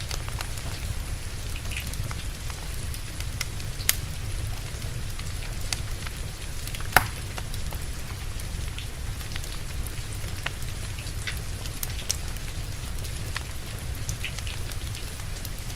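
Steady rain mixed with a wood fire crackling: scattered sharp pops over an even rushing hiss, with one louder pop about seven seconds in.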